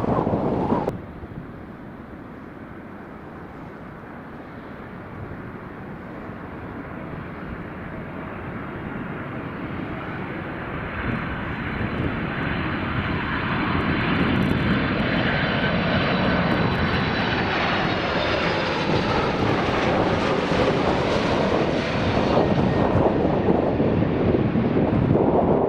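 Passenger aircraft's engines growing steadily louder as the plane approaches, with a faint high whine over the noise. The sound is loudest about twenty seconds in.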